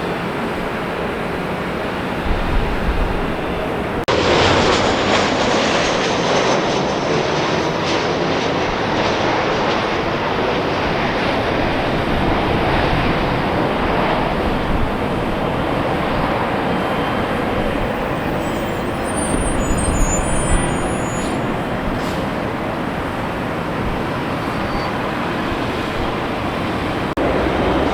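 Jet airliner engine noise, a steady loud rush that jumps up about four seconds in, with a faint high whine slowly falling in pitch.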